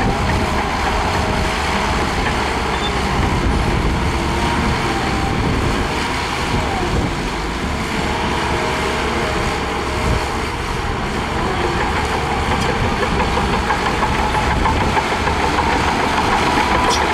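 Heavy diesel engine of a crawler bulldozer working under load, running continuously. It eases off a little midway and builds again through the second half.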